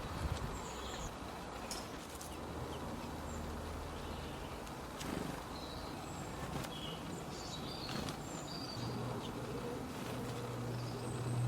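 Small birds giving short, scattered high chirps over a steady background hiss, with a low steady tone coming in near the end.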